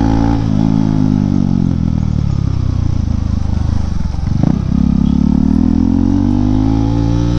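KTM 390 Duke's single-cylinder engine running through a BS4 exhaust swapped onto the BS6 bike, which the rider says frees up power the catalytic converter had held back. The engine note falls as the bike slows, breaks briefly about halfway through, then rises steadily as it accelerates again.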